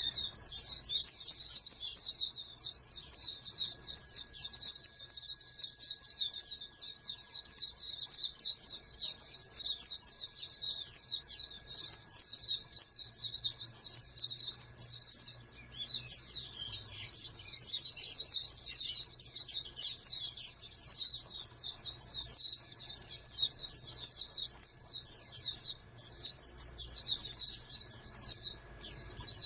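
A pleci (white-eye) singing a long, fast, high-pitched twittering song that runs on almost without pause, broken only by a few short gaps about halfway through and near the end.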